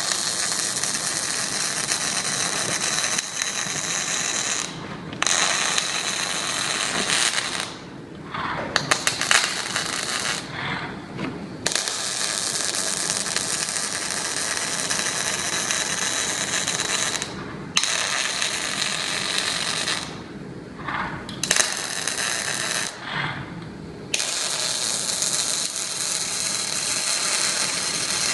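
Automated robotic welding machine at work: a hissing, crackling welding sound in runs of several seconds that stops briefly between welds, with a burst of sharp crackles about a third of the way through.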